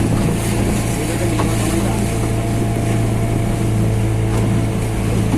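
Motorboat engine running steadily at a constant pitch, a low even drone.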